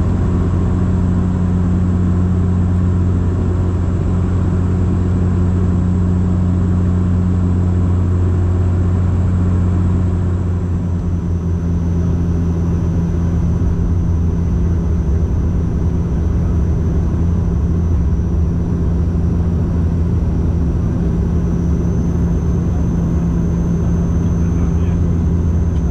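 Steady cabin drone of a Bombardier Dash 8-Q400 in flight, heard from inside the passenger cabin: the low hum of its turboprop propellers over engine and airflow noise. The hum shifts slightly about ten seconds in.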